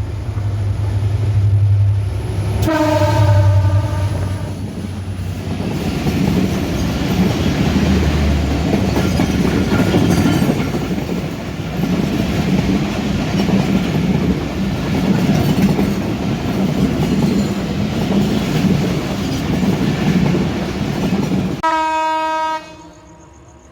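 Bangladesh Railway diesel express train sounding its horn about three seconds in, then rolling past with a steady clickety-clack of wheels over the rail joints. A second horn blast comes near the end, and the sound then cuts off suddenly.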